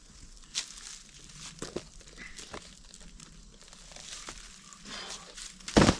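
Bark being pried and torn off a log by hand, in scattered crackles, rips and small clicks, with one loud knock near the end.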